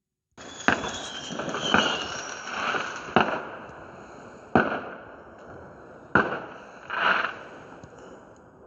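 Fireworks exploding: five sharp bangs over several seconds, with softer crackling swells between them.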